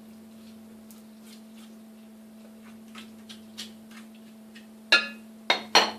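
Spoon stirring thick, hot peanut brittle syrup in a Pyrex glass bowl: light scattered clicks, then a few sharp clacks of the spoon against the glass near the end.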